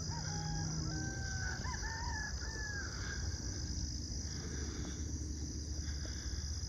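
A rooster crowing once, a multi-note call lasting about two and a half seconds, over a steady high insect drone.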